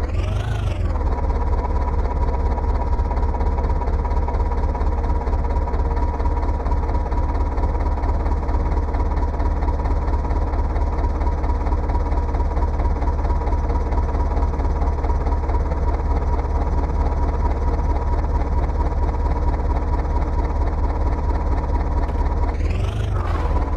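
A diesel tractor engine running steadily with a deep rumble and a steady high whine over it. A sweeping whoosh comes about a second in and again near the end.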